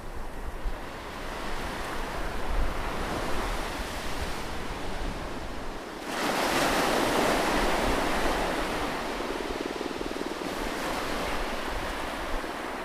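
Ocean surf washing steadily, with a louder wave breaking about halfway through and slowly fading.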